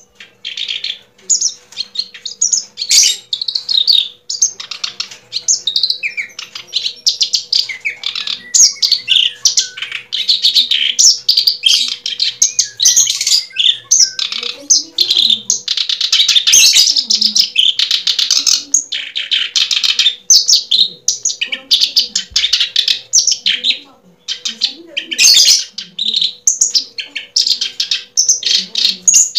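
Birds chirping and twittering in a dense, unbroken stream of rapid short calls, over a faint steady hum.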